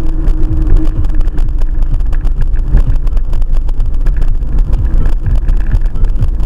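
Loud, rumbling road and wind noise from a moving car, heard through a dashcam microphone, with many irregular knocks and bumps throughout.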